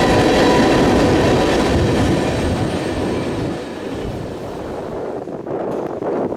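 Freight train rolling past, the rumble and rattle of its cars with a faint steady wheel squeal; the noise eases off about three and a half seconds in.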